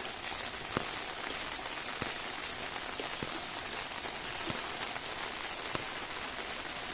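Steady rain falling, with scattered drops splashing, and one brief high-pitched squeak about a second and a half in.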